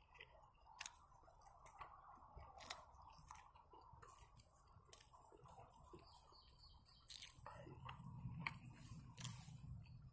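Quiet chewing of a belyash, a fried meat-filled pastry: soft, irregular mouth clicks and smacks, a little louder from about seven seconds in.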